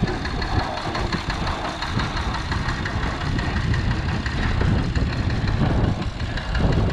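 Fordson Major tractor's six-cylinder Perkins diesel engine running steadily while pulling a slasher through grass.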